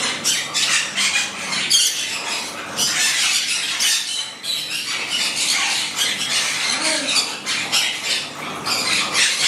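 Pet birds chirping and squawking, many short high calls overlapping without a break.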